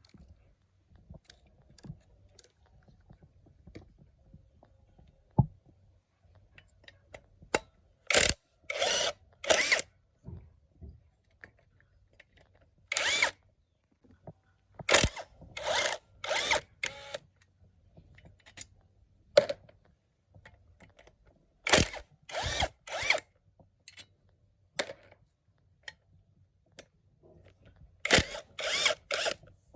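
Handheld power tool run in short bursts of about half a second, mostly in quick groups of two to four, with faint clicks between them.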